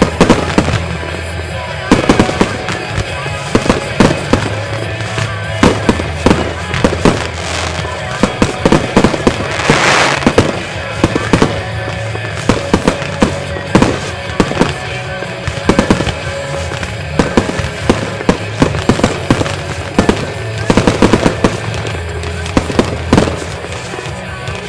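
Fireworks display: a rapid, irregular run of loud bangs, with a dense hissing, crackling spell about ten seconds in. Music with a steady bass plays underneath.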